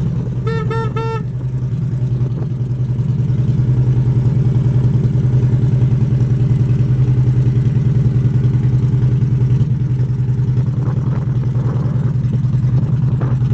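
A Harley-Davidson Street Glide's V-twin engine idles steadily through a Screaming Eagle full exhaust. Its horn sounds briefly just under a second in.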